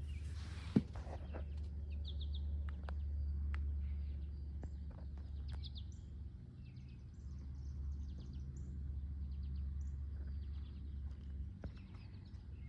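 Birds chirping in short, scattered calls over a steady low rumble, with one sharp click about a second in.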